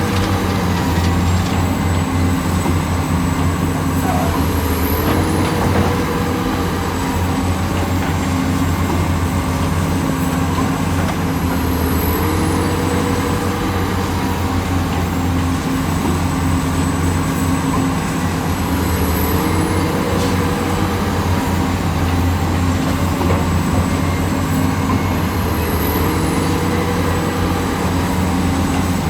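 Heavy construction machinery's engine running steadily, with a change in load that comes back about every seven seconds.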